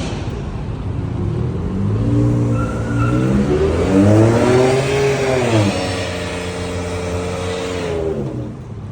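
A car engine revving: the pitch climbs for a few seconds, drops back about two thirds of the way in, holds a steady note, then falls away near the end.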